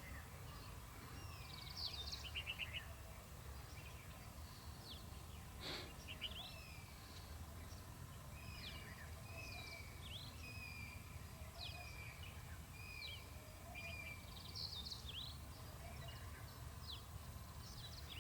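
Several small birds chirping and calling, a busy scatter of short, high, quickly sweeping notes throughout, over a steady low rumble of outdoor background noise. A single sharp click sounds about six seconds in.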